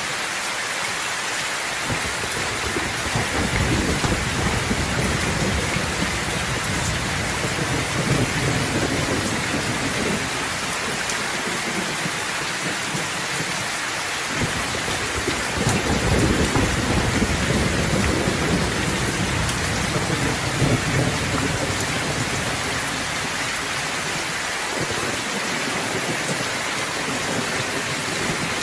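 Steady heavy rain with rolling thunder, two long low rumbles. The second starts about halfway through and is the louder.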